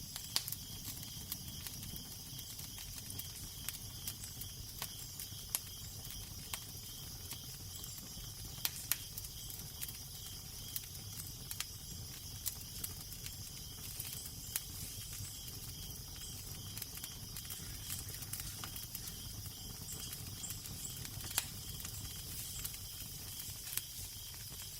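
Fireplace fire crackling, with sharp pops scattered irregularly through it, over a steady low rumble and a constant hiss.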